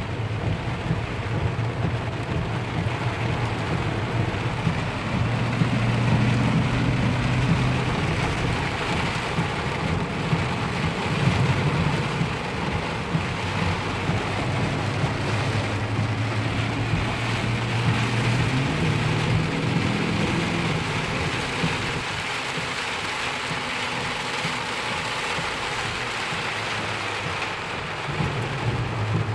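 Steady rain falling, with a low rumble under it for most of the time that fades out about three-quarters of the way through.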